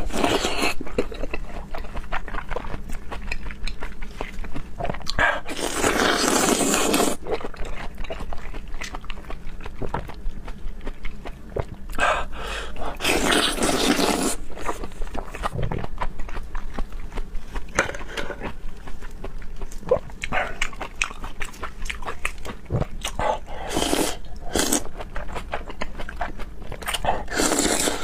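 A person eating raw seafood close to the microphone: wet chewing and mouth clicks throughout, with a few louder noisy bursts about a second long.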